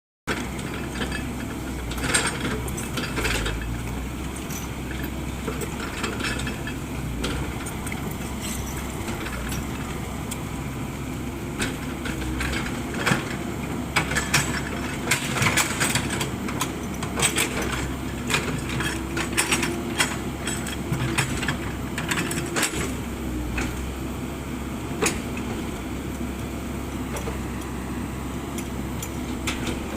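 Komatsu PC78 excavator running, a steady engine drone with frequent sharp metallic clanks and clicks over it, thickest through the middle.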